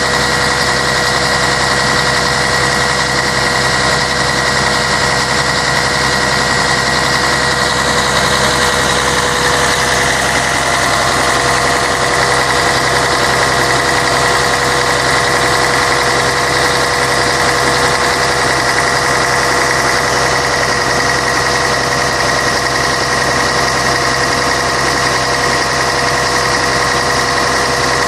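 Scania K113 bus's 11-litre six-cylinder diesel engine running steadily, with constant high-pitched whines over the engine note and a slight change in tone about ten seconds in.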